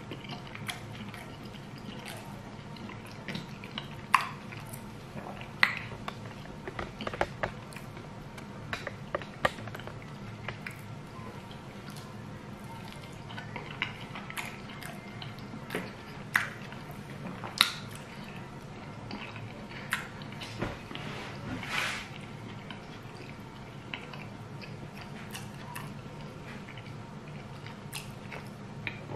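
Mouth sounds of eating soft fried sweet potato and scrambled-egg sauce by hand: wet chewing with sharp smacks and clicks every second or two, over a steady low hum.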